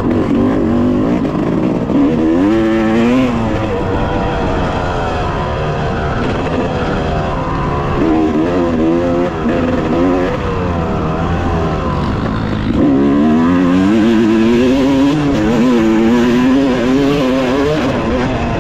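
Two-stroke 2018 Yamaha YZ250X dirt bike engine under hard riding, its pitch climbing and dropping again and again as the throttle opens, the gears change and it comes off the throttle.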